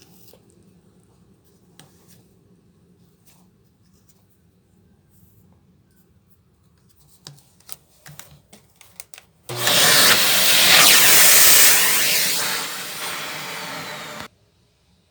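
Shark vacuum cleaner switched on after a stretch of faint handling clicks and knocks, running loudly for about five seconds, a little quieter in its last part, then cut off suddenly.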